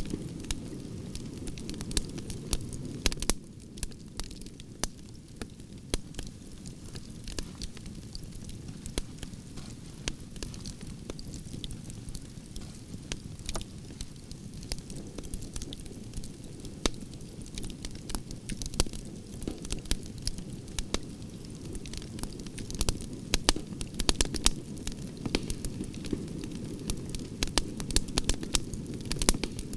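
Wood fire burning in a fireplace: a steady low rush from the flames, with sharp crackles and pops scattered throughout. The pops come thicker and louder in the first few seconds and again near the end.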